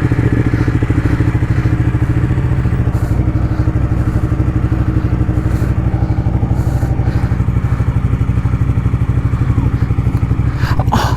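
Ducati motorcycle engine running steadily at low revs, with an even pulsing beat.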